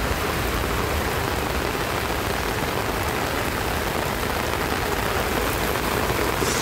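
Heavy rain pouring steadily onto a wet street, an even, dense hiss.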